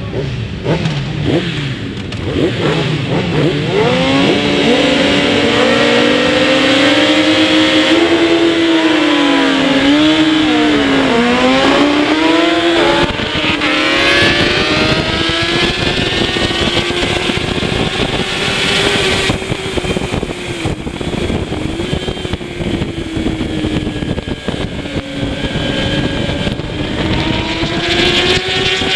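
Kawasaki ZX-10R superbike's inline-four engine running hard on track; its note comes in strongly about four seconds in, dips and climbs back a few times near the middle, then holds high and steady.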